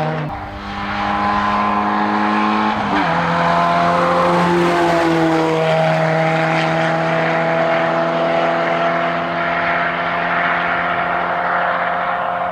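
Volkswagen Golf rally car's engine pulling hard up a hillclimb course, with a gear change about three seconds in, then holding a steady high note.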